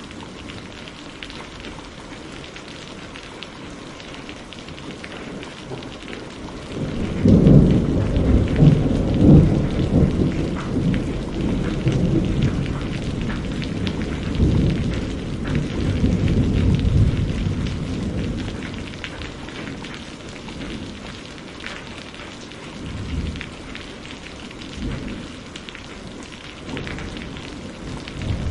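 Steady rain falling, with a long rolling rumble of thunder that swells in about a quarter of the way through, is loudest in its first few seconds, and slowly dies away, followed by a couple of fainter rumbles near the end.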